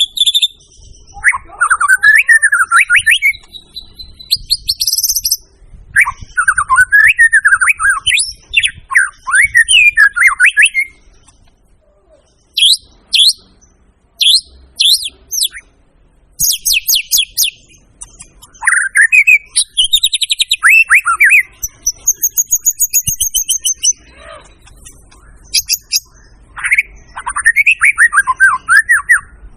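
White-rumped shama (murai batu) singing a long, varied song: phrases of rich whistled warbles sliding up and down, sharp repeated high notes and fast high trills, with short pauses between phrases.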